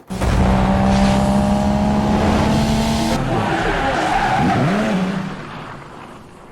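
Loud car engine and tyre-squeal noise that starts abruptly, holds steady with a dip and rise in pitch about four seconds in, then fades out over the last two seconds.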